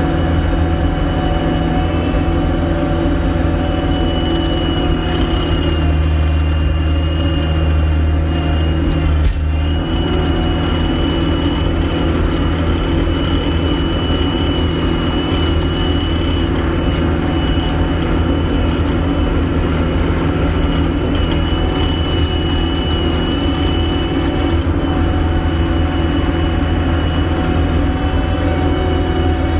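Gehl 5625SX skid steer running steadily under work, engine hum with a steady high hydraulic-type whine over it, and a brief click about nine seconds in.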